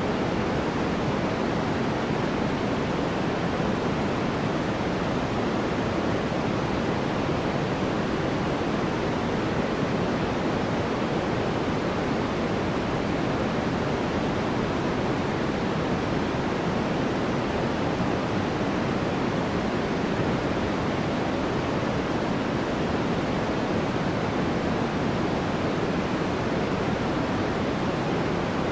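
Steady, unbroken sleep-aid white noise: an even hiss with no rhythm or events, fullest in the low middle and softer in the treble.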